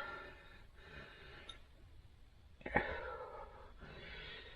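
A person breathing audibly in and out, several breaths about a second each, with a short click a little over two and a half seconds in.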